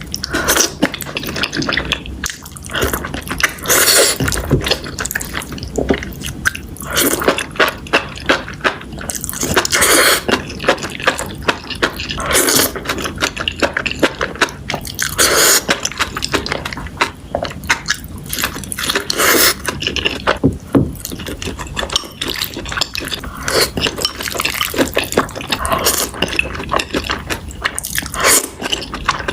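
Close-miked eating sounds: wet chewing and mouth clicks, broken by several longer, louder wet bursts like slurps.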